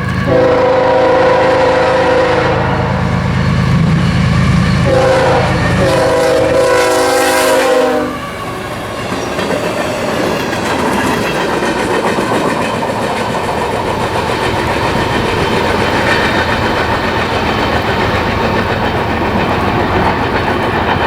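CSX freight locomotive's air horn sounding two long blasts over the low rumble of its diesel engine, then the train's cars rolling past with a steady rumble and clatter of wheels on the rails.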